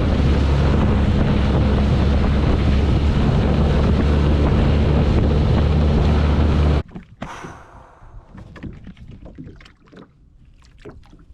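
Small boat's outboard motor running steadily, cutting off abruptly about seven seconds in. Faint scattered knocks and clicks follow.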